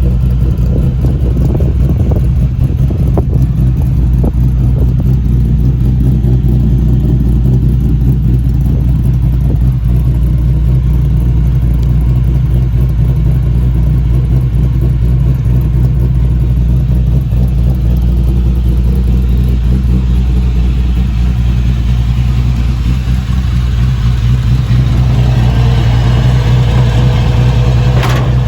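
LS2 V8 engine with a Tick Performance Stage 3 camshaft, in a 1952 Chevrolet 3100 pickup, idling steadily. A steady higher tone joins near the end.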